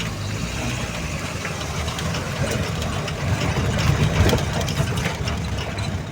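A safari vehicle's engine running steadily with a low hum, with rattles and clicks from the vehicle.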